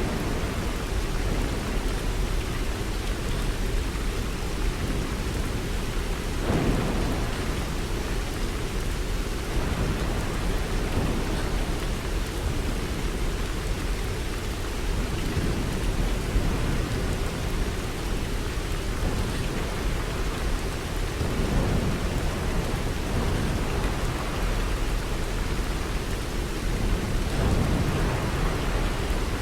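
Steady, even rain, with low rumbling swells rising about six seconds in, again past twenty seconds and near the end.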